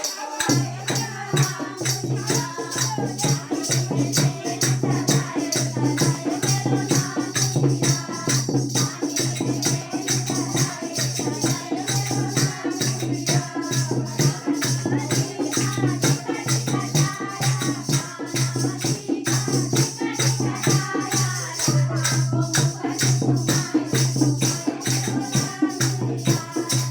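A languriya folk song sung to a steady, fast beat of shaken rattle-like percussion.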